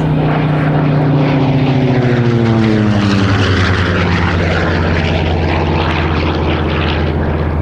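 Curtiss SB2C Helldiver's 14-cylinder Wright R-2600 radial engine on a loud flyby, its pitch dropping as it passes, about one to three seconds in, then running at a steady lower pitch as it goes away.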